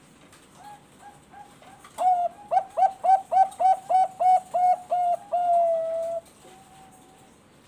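Zebra dove (Thai-bred perkutut bangkok) singing: a few soft notes, then a fast series of about a dozen loud staccato coos ending in one longer drawn-out note.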